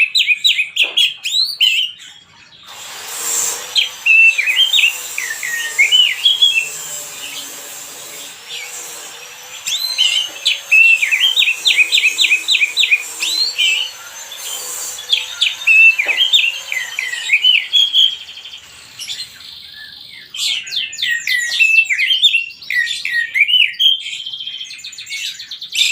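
A songbird singing in repeated fast trilled and warbling phrases, with short pauses between phrases; a steady hiss lies under the song for most of the middle.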